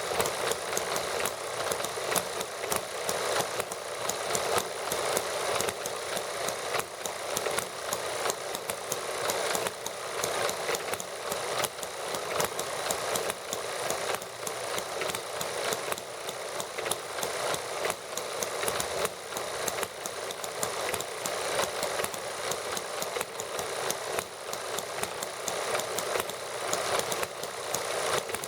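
Small model gasoline engines running steadily, a rapid, even clatter of firing strokes that keeps on without let-up.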